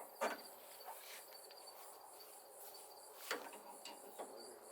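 Faint, steady chirping of crickets, with two short clicks or knocks, one about a quarter second in and one just after three seconds in.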